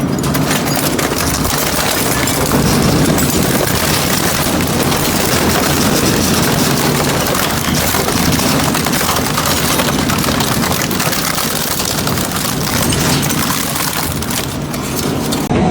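Industrial metal shredder running under load, a steady low machine drone beneath dense, continuous grinding noise.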